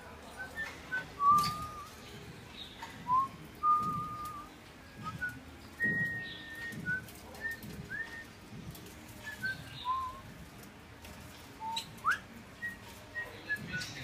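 A flock of small perching birds calling with short, clear whistled notes scattered throughout. Some notes are held briefly and others rise quickly. Soft low pulses recur underneath about once a second.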